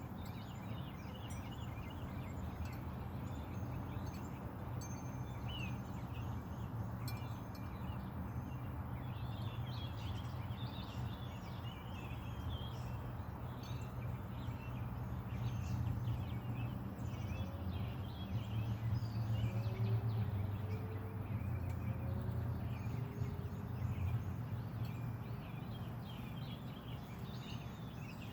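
Many small birds chirping and calling over a steady low rumble.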